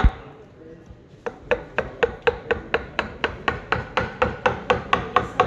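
Mallet driving a woodcarving chisel into totara wood: quick, even strikes about four a second. The strikes pause for about a second near the start, then resume.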